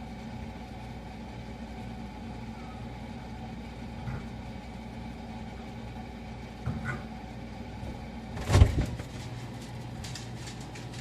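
Refrigerator humming steadily, with a few light knocks and one loud thump about eight and a half seconds in.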